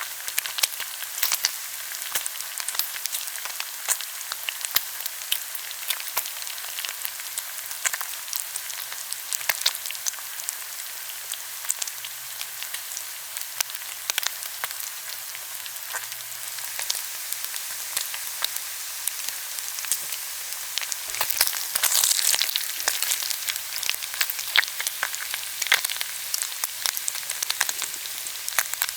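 Pork belly sizzling on a hot grill, a steady high hiss of frying fat with frequent sharp pops and crackles. The sizzling swells louder for a couple of seconds about two-thirds of the way through.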